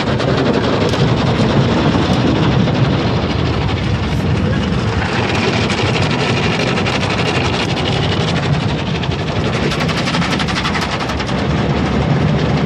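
Automatic car wash heard from inside the car: a loud, steady, rapid drumming and rattling of the wash against the car's body and windows.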